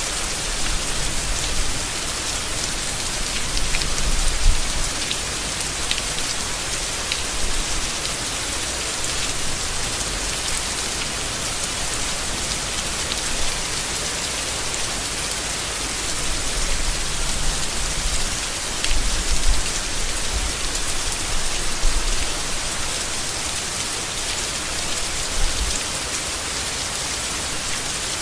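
Steady rain falling on leaves, an even hiss with scattered drop ticks and a few brief low rumbles.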